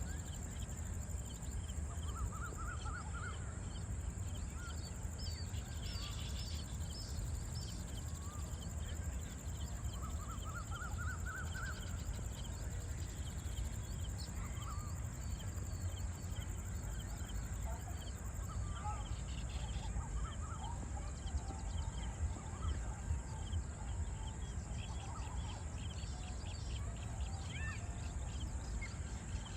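Wild birds chirping and calling, with scattered short notes and two short rising trills, one a few seconds in and one about ten seconds in, over a steady high hiss and a low rumble.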